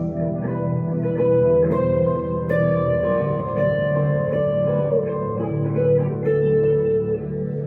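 Electric guitar, a 1962 Gibson Les Paul Custom through a Two-Rock Emerald Pro tube amplifier, playing a slow lead line of held, sustained notes over a low steady accompaniment.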